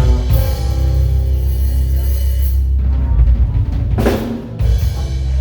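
Live waila band playing, with drum kit and a strong low bass under held instrument tones. A cymbal crash comes about four seconds in.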